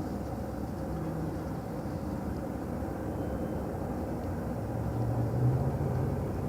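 Low steady rumble of a motor vehicle engine, swelling about five seconds in.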